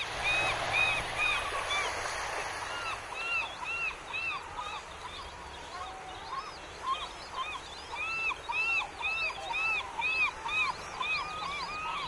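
A chorus of birds calling: many short arched notes, several a second, overlapping, with some longer notes between them.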